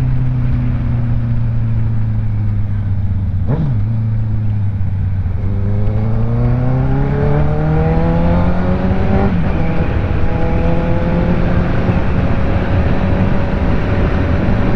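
Honda CB650R's inline-four engine heard from the rider's seat while accelerating through the gears: the engine note drops sharply at a gear change about three and a half seconds in, climbs steadily, dips briefly at another shift around nine seconds, then holds and slowly rises again. Wind rush runs underneath.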